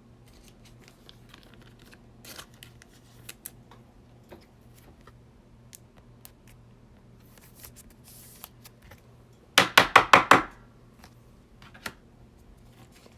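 Trading cards and their pack packaging being handled at a table: scattered light clicks and rustles over a faint steady hum. About ten seconds in comes a quick, loud run of six or seven sharp strokes, like snips or cards flicked in fast succession.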